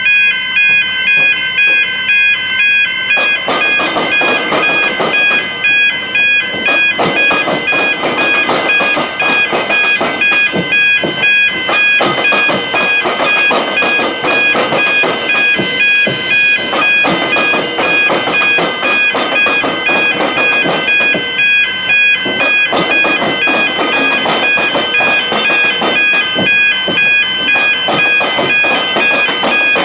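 Level crossing warning bells ringing, a fast, regular electronic dinging of several high tones. From about three seconds in, a loud rushing noise joins them.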